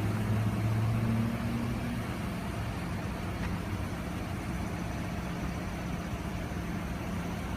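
A vehicle engine idling: a steady low hum, a little louder for the first two seconds.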